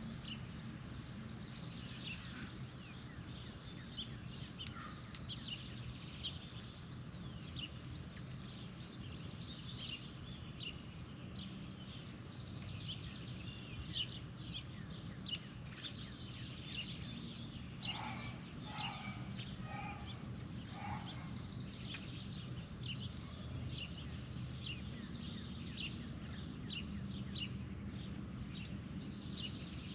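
Small birds chirping again and again in short high notes, with a run of four lower, harsher calls from another bird about eighteen seconds in, over a steady low hum.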